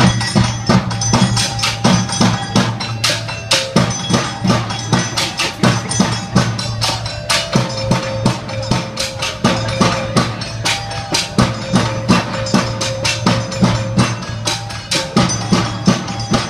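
A rampak percussion ensemble drumming a fast, dense rhythm, with strikes several times a second and a melody of held notes running over it.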